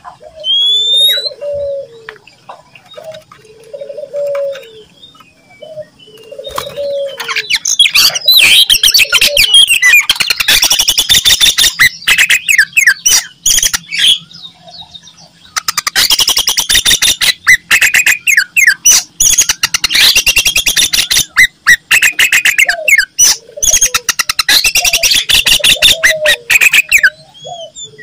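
Oriental magpie-robin singing loudly in a rapid, harsh chattering song mixed with whistled notes, breaking off briefly about halfway. Low cooing notes repeat about every second and a half in the background at the start and again near the end.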